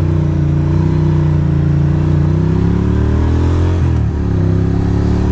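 Ducati Monster's V-twin engine pulling under acceleration, its pitch rising steadily, then dropping sharply at an upshift about four seconds in before pulling again.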